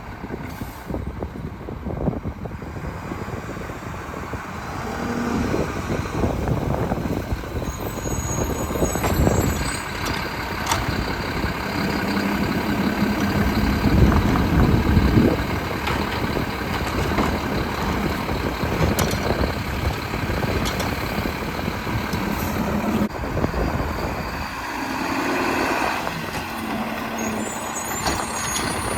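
Mack LEU garbage truck with a Bridgeport packer body running, its engine growing louder about halfway through, with air-brake hisses and reversing beeps.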